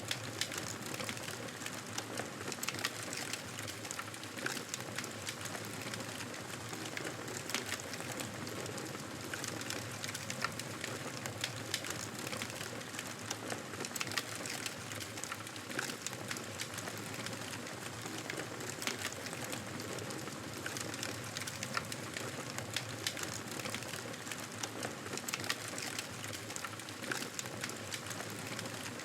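Campfire burning, with a steady hiss and frequent sharp crackles and pops at irregular intervals.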